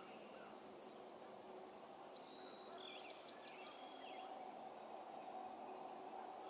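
Faint birdsong outdoors at dawn: a couple of short songs of quick high notes about two to four seconds in, over a steady low background hum.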